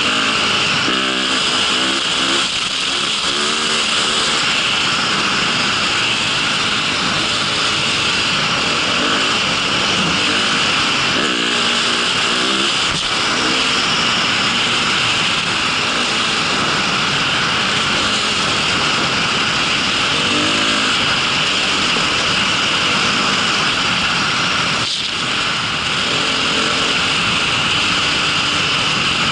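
Motor vehicle running steadily under a loud continuous rushing noise, with its pitch briefly wavering a few times.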